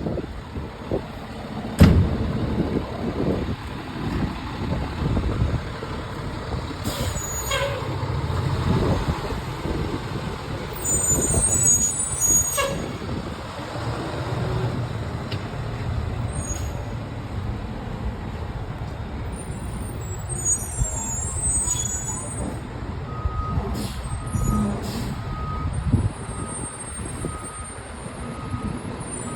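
Fire truck's diesel engine running with a low rumble and a few sudden sharp sounds in the first half. Near the end a reversing beeper starts, beeping about once a second: the truck is backing up.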